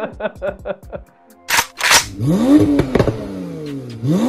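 A car engine revved twice with quick throttle blips. Each one rises sharply in pitch, then falls away slowly. Two short, sharp bursts of noise come just before.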